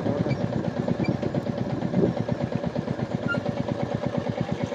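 Royal Enfield Meteor 350's single-cylinder engine running at low revs, an even thumping beat of about ten pulses a second.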